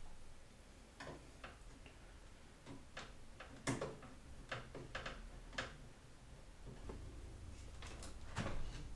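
Irregular light clicks and taps from working on an open desktop PC case with a screwdriver to free the graphics card, about ten in all, the loudest a little under four seconds in.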